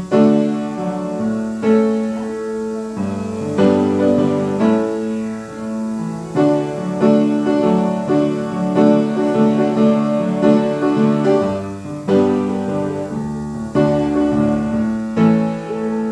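Piano playing a slow, hymn-like piece in full chords with a bass line, each chord struck about once a second and left to ring.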